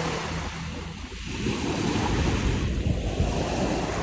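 Waves washing onto the shore of a choppy sea, with wind on the microphone. The wash dips about a second in, then swells up again.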